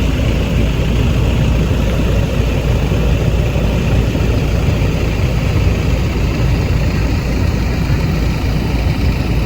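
Steady, loud low rumble with a rough noisy haze above it, unbroken throughout.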